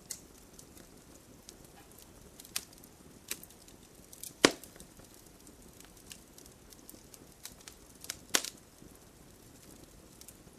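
Wood campfire crackling: scattered sharp pops and snaps over a faint low hiss. The loudest is one pop a little before halfway, and a quick cluster of snaps comes about three quarters of the way through.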